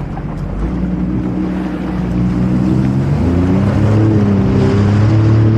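Jet ski engine running, then revving up about three seconds in, its pitch climbing and then holding steady as it pulls away, with water and wind noise over it.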